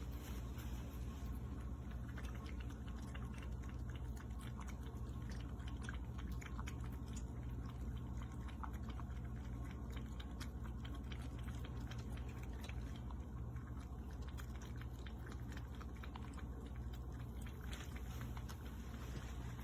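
A cat lapping water from a stainless steel pet water fountain: many small, irregular wet clicks over the fountain's steady low hum.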